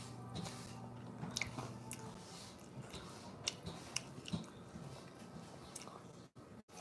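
Faint close chewing of pancake, with scattered small mouth clicks and bites; the pancake is one she says is burnt.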